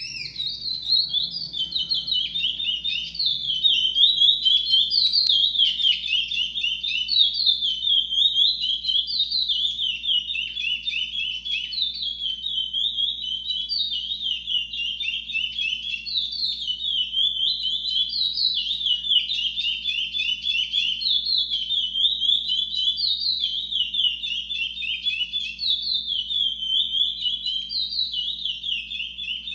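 Curió (chestnut-bellied seed finch) singing continuously, a fast, unbroken run of quick descending whistled notes in phrases that repeat every second or so.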